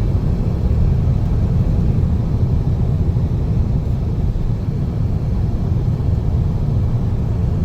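Steady low rumble of a van driving on the road, heard from inside: road and engine noise with no change in pace.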